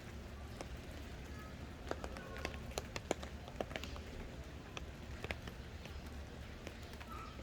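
Steady low background hum with many short, sharp clicks and taps scattered irregularly through it.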